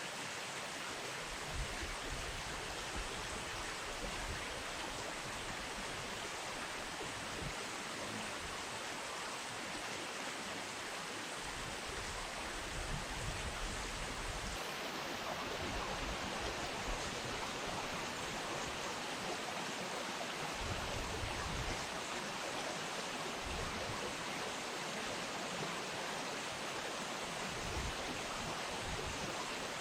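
Steady rushing of flowing river water, with occasional low rumbles underneath.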